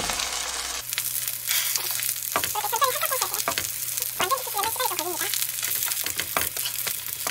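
Egg-battered slices of beef liver frying in oil in a non-stick pan: a steady sizzle full of sharp crackles and spits, with a wooden spatula shifting the pieces in the pan.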